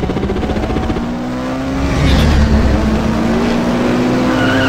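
Sports car engine revving up and down as produced intro sound effects, with a high tyre squeal starting near the end.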